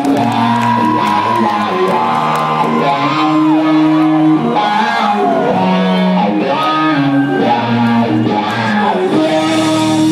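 Live rock band playing loud, an electric guitar bending sustained lead notes over the band.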